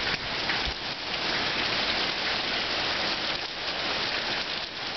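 Steady heavy rain falling during a tropical storm, a dense even hiss with no let-up.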